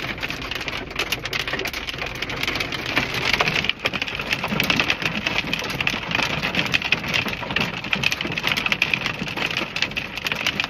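Sleet and rain pelting a car, a dense, steady patter of many small hits.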